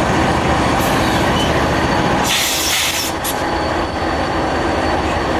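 Southern Pacific freight train passing at speed: a steady loud rumble of rail cars rolling on the track, with a thin high ring throughout and a brief burst of hiss about two and a half seconds in.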